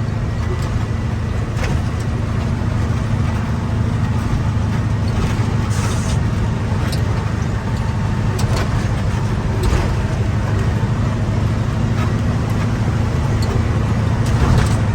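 Truck engine running steadily under way, a continuous low drone, with occasional short knocks and rattles from the moving truck.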